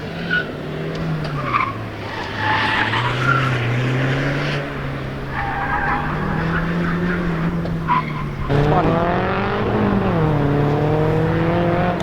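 Car being driven hard on an autocross course: the engine rises and falls in pitch as it brakes and accelerates, with tyres squealing through the turns. About eight and a half seconds in, the engine pulls hard, its pitch climbing.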